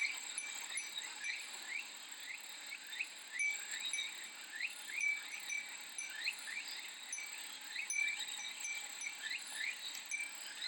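A Japanese furin wind chime ringing in short repeated tings over a steady high cicada chorus, with many short rising chirps running through it.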